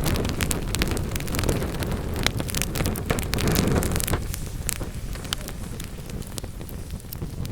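Wood fire burning in a fireplace, crackling and popping with many sharp snaps over a low rushing roar from the flames. The roar eases off about halfway through.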